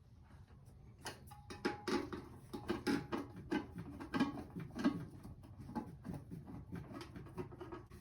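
A run of irregular clicks and light knocks, a few a second, starting about a second in, as the access covers of an electric water heater are handled and put back on.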